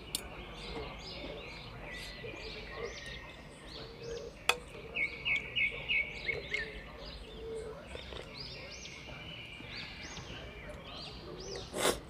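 Small songbirds chirping and calling throughout, with a quick run of about five chirps near the middle. A single sharp clink of cutlery against a glass dish about four and a half seconds in.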